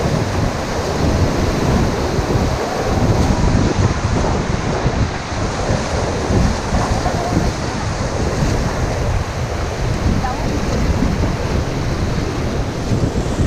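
Rushing white-water river noise with wind buffeting the head-mounted GoPro's microphone: a loud, steady rough roar with constant low rumbling gusts.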